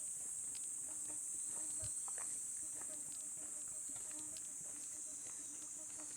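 Steady high-pitched chorus of crickets and other night insects, with a low, evenly pulsing chorus of frogs beneath and scattered light footsteps.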